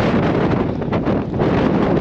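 Very strong wind buffeting the microphone, a loud, steady rush that swells and dips with the gusts.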